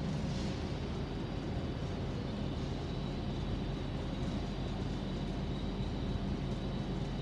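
Trains standing at the platforms, idling with a steady low drone and a faint, steady high whine above it.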